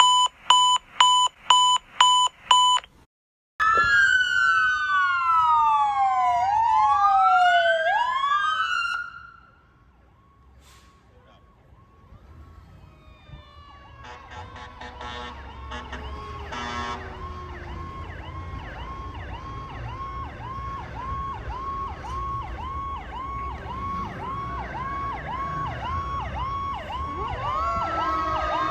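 Rapid evenly spaced electronic beeping stops about three seconds in. Then fire apparatus sirens wail loudly, several overlapping sweeps rising and falling, until they cut away about nine seconds in. After a quieter stretch, a fast yelping siren grows steadily louder as the apparatus approaches.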